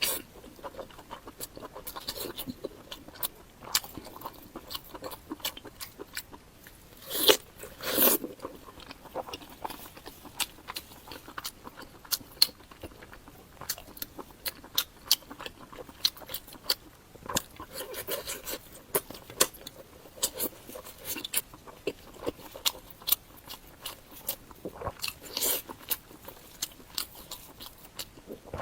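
Close-miked eating: steady chewing with crunchy bites and small wet mouth clicks, with a few louder bites about seven seconds in and again near the end.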